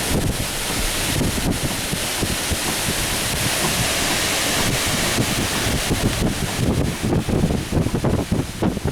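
Strong thunderstorm wind gusts rushing through trees, with heavy wind buffeting on the microphone.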